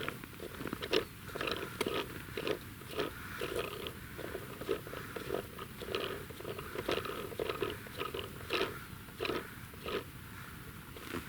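Footsteps crunching in frozen snow, about two crunches a second at a walking pace.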